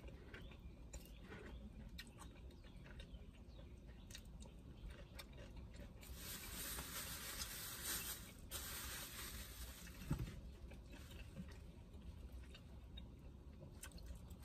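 Faint chewing and eating sounds, with small clicks of a plastic fork against a foam takeout container. A few seconds of rustling hiss come in the middle, and a sharper tap about ten seconds in.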